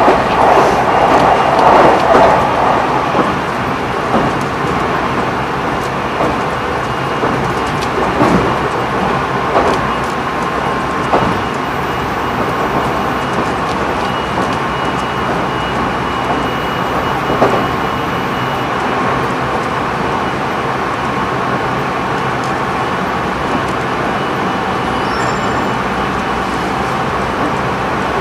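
JR Central 373 series electric train (Toshiba GTO-VVVF) running between stations, heard from inside motor car KuMoHa 373-2: steady rolling and running noise with a few short knocks, louder for the first few seconds.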